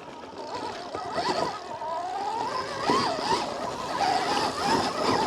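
Stark Varg electric dirt bike's motor whining as it is ridden, its pitch rising and falling with the throttle.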